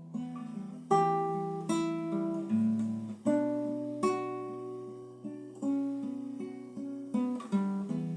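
Acoustic guitar playing a slow instrumental introduction, with plucked chords struck about once a second and left to ring.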